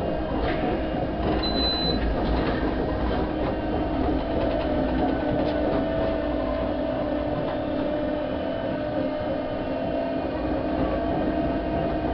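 Narrow-gauge electric railcar running along its track, heard from inside the front of the car: a steady hum over the rumble of wheels on rail, with a few clicks and a brief high squeal about a second and a half in.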